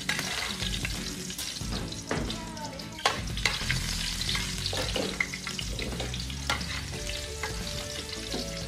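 Chopped garlic sizzling in oil in a steel wok, stirred with a metal spatula that scrapes and knocks against the pan every second or so.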